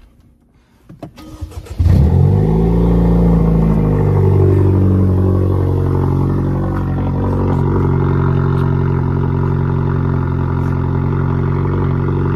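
Cold start of a Kia Stinger's 2.0-litre turbocharged four-cylinder engine. After a brief crank it catches just before two seconds in, flares up in revs, then settles into a steady fast cold idle.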